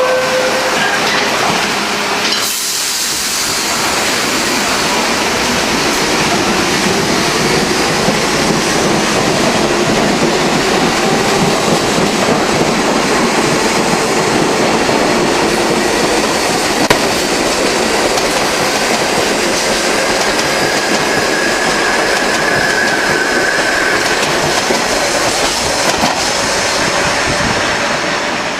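R44 subway train pulling out of a station: a steady loud rumble and clatter of wheels on rail, with a motor whine that climbs in pitch as it picks up speed. A high wheel squeal comes in for a few seconds about two-thirds of the way through.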